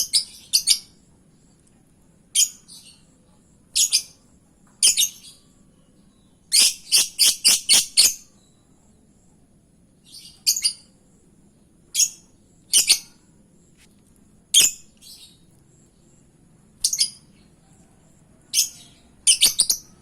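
Lovebird calling with short, sharp, high-pitched chirps, singly or in pairs every second or two, with a quick run of five calls about seven seconds in. These are lure calls meant to set another lovebird answering.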